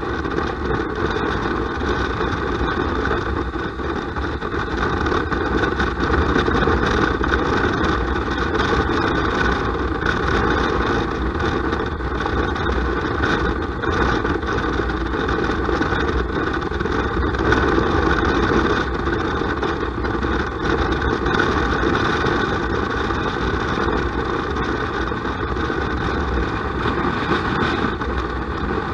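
Motorcycle riding noise, engine and strong wind together, heard muffled through an action camera's waterproof case on a helmet chin mount. It runs steadily, swelling and easing a little in loudness.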